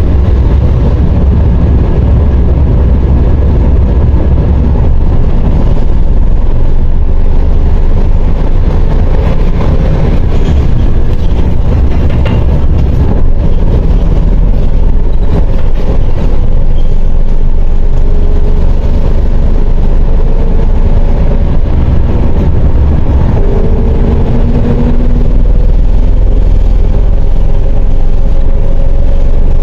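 A MAZ 104.021 city bus driving, heard from inside: a steady engine and road rumble. In the second half a whine rises in pitch twice as the bus speeds up.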